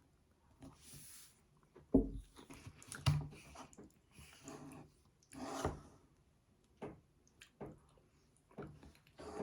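Irregular knocks, taps and short rustling scrapes of household things being handled, the loudest about two and three seconds in, with a longer scrape a little past halfway.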